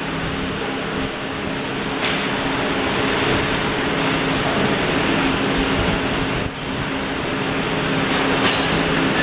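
Electric arc welding: the steady hissing crackle of the arc over a steady hum, breaking off briefly about six and a half seconds in.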